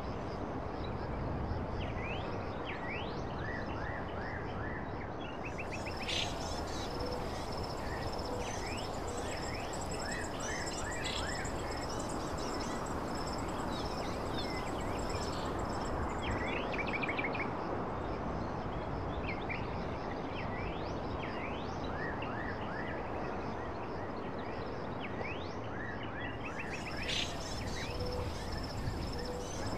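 Nature ambience: small birds chirping repeatedly over a steady rushing background noise, with a high, thin pulsing trill like an insect coming in about six seconds in, stopping about ten seconds later, and returning near the end.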